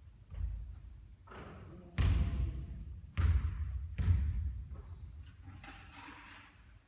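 A basketball bouncing on a hard gym floor: a handful of heavy thuds that ring on in the hall, the loudest about two, three and four seconds in. A short high beep sounds about five seconds in.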